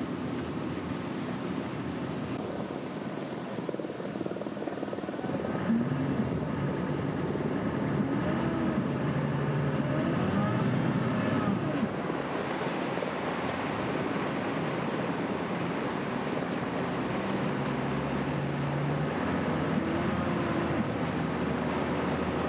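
An engine running steadily over wind and water noise, louder from about six seconds in.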